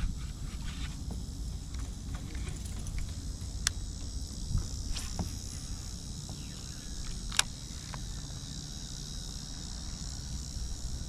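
Steady high-pitched chorus of insects over a low background rumble, with a couple of sharp clicks about four and seven seconds in.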